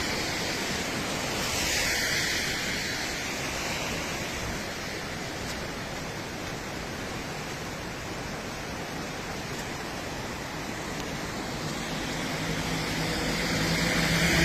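Steady rushing noise of floodwater flowing. A faint low hum joins near the end.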